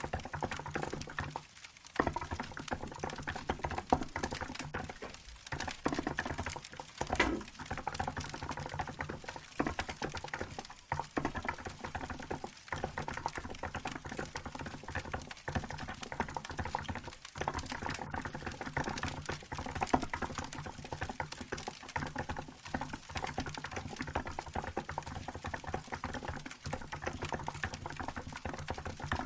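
Steady typing on a Hansung GK868B keyboard, a continuous run of soft key clicks, over the crackle of a wood fire.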